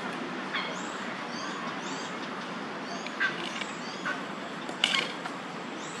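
Bird calls: short high chirps that arch down in pitch, repeating every half second or so, loudest about five seconds in, over a steady low background hum.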